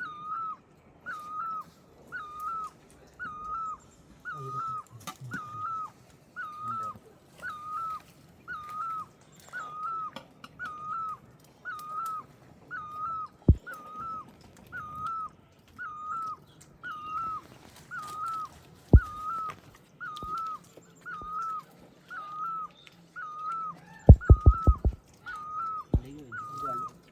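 An animal's short pitched call, repeated very evenly about once a second, with a few sharp knocks, including a quick rattle of them about three-quarters of the way through.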